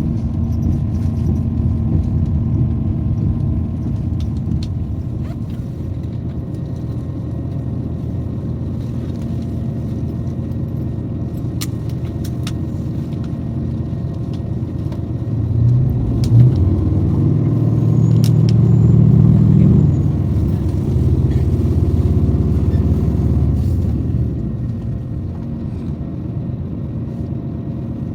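Diesel express train running with a steady low rumble. About halfway through, the engine note swells louder for several seconds, then eases back, with a few faint clicks along the way.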